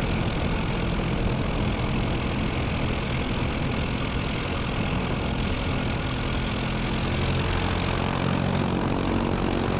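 UL Power 350i four-cylinder aircraft engine running steadily at low power, warming up after a cold-weather start, heard inside the cabin. Its note shifts slightly about seven seconds in.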